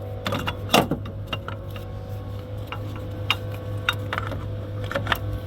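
Scattered metallic clinks and knocks as a replacement engine mount is worked back into place in the engine bay, over a steady low hum.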